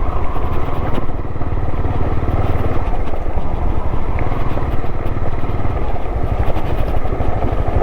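Honda motorcycle engine running steadily while being ridden, a continuous low, rapid firing pulse.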